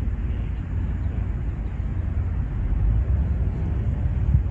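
Outdoor park ambience: a steady low rumble with a faint even hiss above it.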